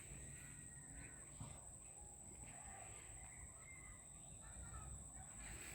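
Faint scattered bird calls over a steady high-pitched thin tone and low background rumble.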